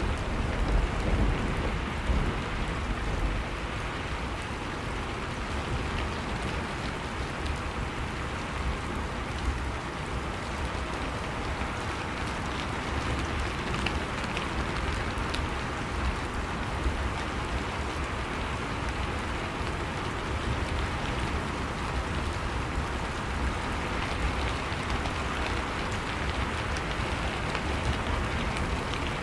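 Steady, even rain pattering on surfaces, with scattered individual drops ticking; the low rumble of a thunder roll dies away in the first couple of seconds.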